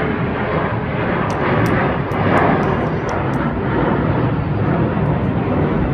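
Jet airliner's engines running loud, a steady, unbroken rush of noise heard from the airport's observation area, typical of an aircraft powering up on the runway after turning around.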